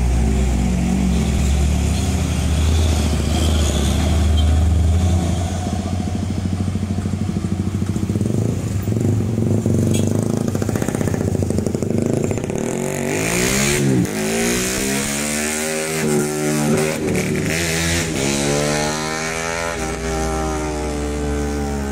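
Road vehicle engines running: a deep engine rumble for the first few seconds, then engine notes rising and falling repeatedly as they rev up and ease off.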